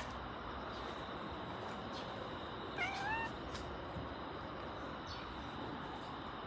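A domestic cat gives one short, rising meow about three seconds in, over a steady background hiss.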